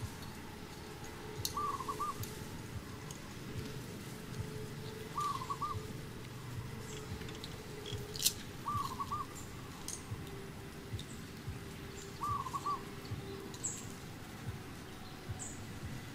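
A bird repeating a short call of three quick notes about every three and a half seconds, over faint scattered clicks.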